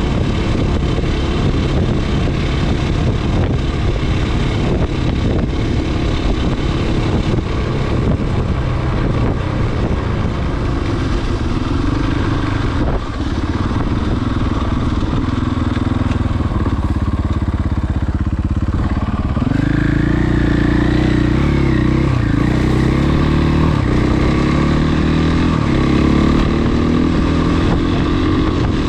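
Husqvarna FE 501s single-cylinder four-stroke dirt bike engine running under way. The engine eases off in the middle, then picks up sharply about two-thirds through, with revs rising and falling as the throttle is worked.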